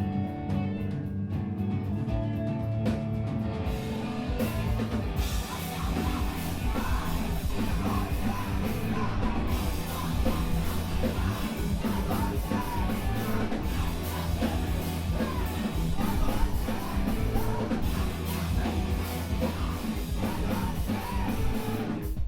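Live screamo band playing loud: ringing electric guitar chords open, then drums and the full band come in about four seconds in, with yelled vocals over them. The music stops abruptly at the very end.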